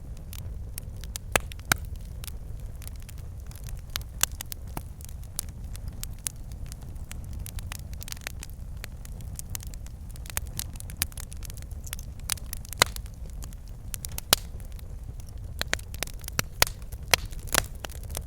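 Wood fire burning in a fireplace: logs crackling and popping irregularly over a low steady rumble of the flames.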